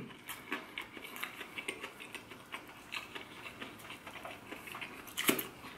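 Someone chewing crispy fried chicken with the mouth closed: a steady run of small crunches and wet mouth clicks, with one sharper crunch about five seconds in.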